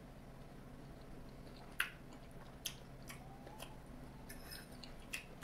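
Quiet mouth sounds of chewing lo mein noodles, with a few sharp clicks (the loudest about two seconds in) over a faint steady low hum.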